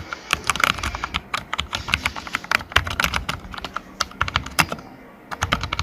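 Keys of a computer keyboard being typed on rapidly, a dense run of plastic clicks with a brief pause near the end. The switches have just been sprayed with lubricant to cure a squeak like a creaking door.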